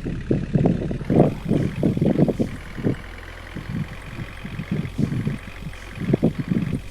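Truck engine running with a steady low hum, overlaid by irregular rumbling bursts that ease off for a few seconds in the middle.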